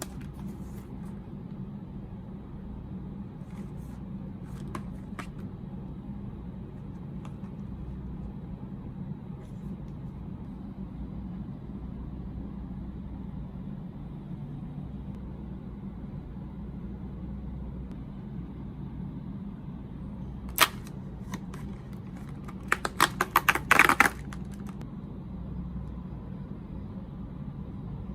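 Snack packaging being handled over a steady low hum: one sharp click about two-thirds of the way in, then a short run of loud clicking and crackling a few seconds later.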